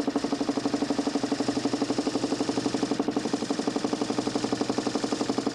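DC motor spinning a 40cm plywood Nipkow disc in a homemade mechanical television, running steadily with a hum that pulses fast and evenly.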